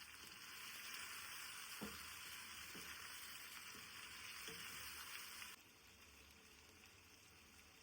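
Faint sizzle of food frying in a pan, with a few soft knocks of a utensil; the sizzle cuts off suddenly about five and a half seconds in.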